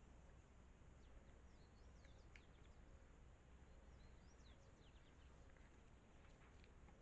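Near silence: faint outdoor ambience with a scatter of short, high, distant bird chirps and light clicks.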